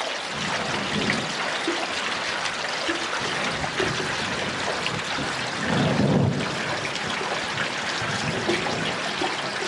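Steady hiss of rain falling during a thunderstorm, with a short low rumble about six seconds in.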